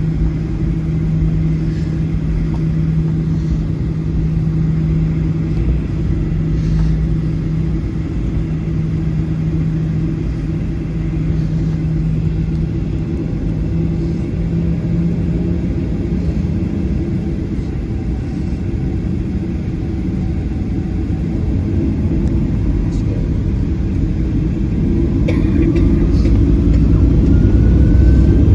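Boeing 737-800's CFM56 jet engines heard from inside the cabin, running steadily at low thrust with a steady hum, then growing louder with a rising whine near the end as they spool up for the takeoff roll.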